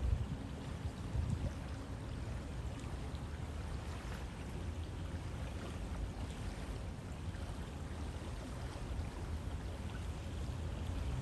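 A river flowing steadily, an even rushing of water, with a brief low rumbling swell about a second in.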